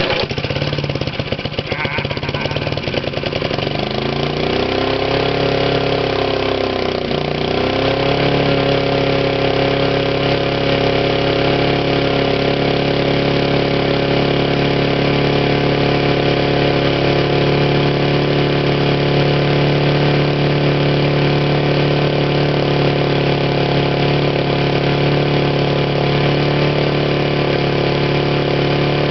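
Briggs & Stratton single-cylinder lawnmower engine on a vintage Cooper mower, cold-started on the first pull after sitting for weeks. It fires immediately, its speed sags and picks back up about five to seven seconds in, then runs steadily.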